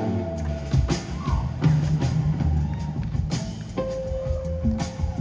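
Live band playing an instrumental passage: drum kit strikes over a bass line, with a held note coming in a little under four seconds in.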